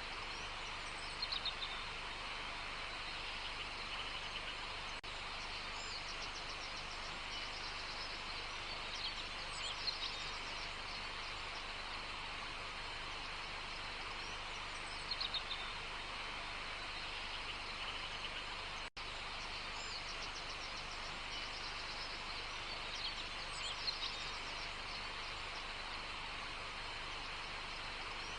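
Outdoor nature ambience: a steady hiss, with a bird's short, rapid trilled calls rising above it every few seconds.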